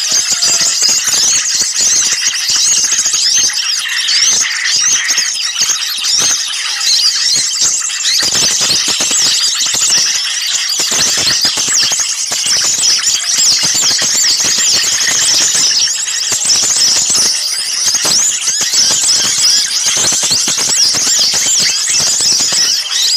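A dense chorus of many small songbirds chirping and scolding at once: a loud, unbroken tangle of rapid high-pitched chirps and trills. It is the agitated, noisy small-bird calling used as a lure recording to draw other birds in.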